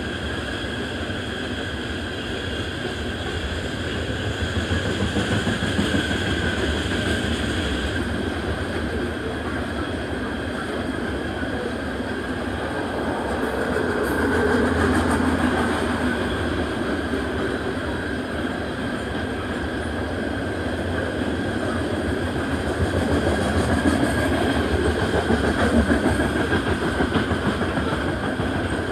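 Freight train tank cars rolling past: a steady rumble and clatter of steel wheels on the rails that swells louder a few times as cars go by.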